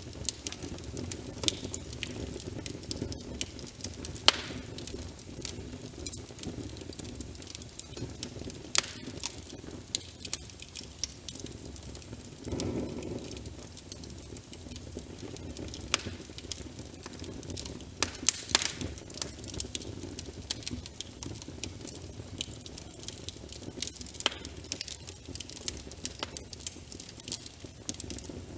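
Wood fire crackling with frequent irregular sharp pops over a steady hiss of rain. There is a brief soft swell about halfway through.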